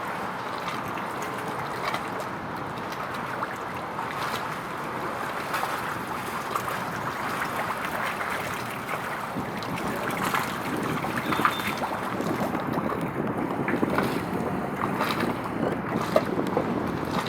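Steady outdoor wind and water noise with many small crackles, a little louder in the second half.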